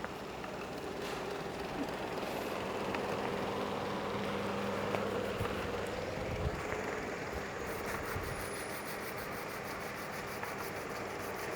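Large 75 kW industrial air compressor running: a steady machine hum with a constant low tone over broad noise, and a few low thumps a little past the middle.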